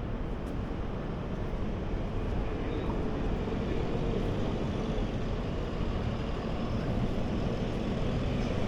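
Steady low rumble of city traffic noise, with no distinct events, growing slightly louder towards the end.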